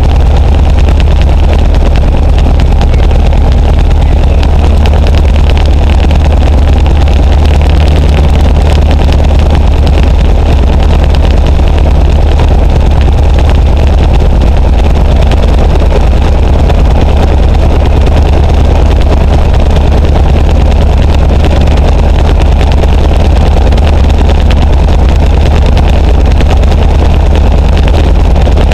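Luscombe light aircraft's piston engine running steadily with propeller noise, loud and unchanging, with a strong low hum.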